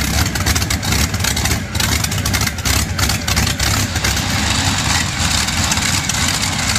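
Large vehicle engine running loudly with a steady, rapid rumbling beat.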